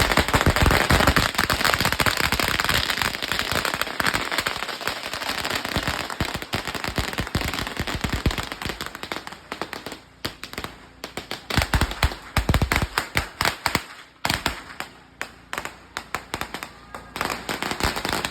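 Strings of firecrackers going off in a dense, rapid crackle of bangs, which thins after about ten seconds into scattered separate cracks with a few louder bangs among them.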